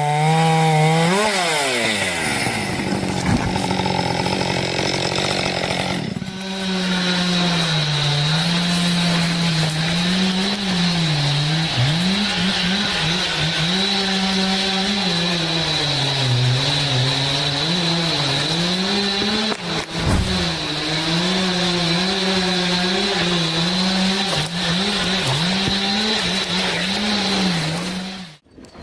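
Chainsaw running under load while cutting, its engine pitch repeatedly dipping as the chain bites and rising again as it frees up. The sound breaks off sharply about six seconds in and resumes, and it drops out briefly near the end.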